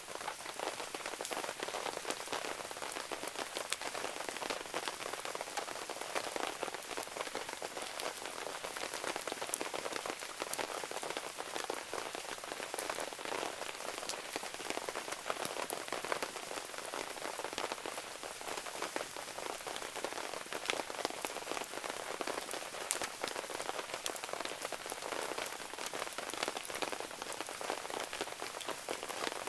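Steady rain falling, with a dense scatter of small sharp ticks from drops striking surfaces.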